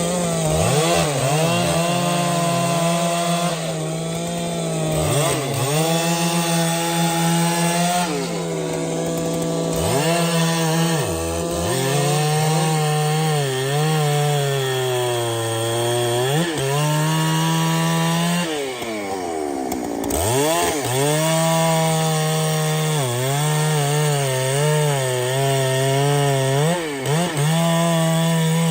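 Chainsaw running under load while cutting wood. Its engine pitch sags as the chain bites and climbs back again and again, dropping deeply twice.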